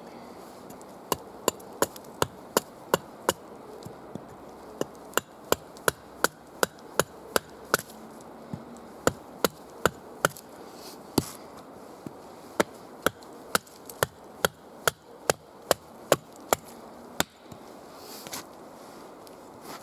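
A tool striking wood over and over in quick runs of sharp knocks, about two to three a second, with short pauses between runs.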